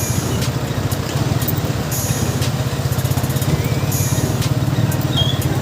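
Tractor engine running steadily under way, a fast, even low chugging.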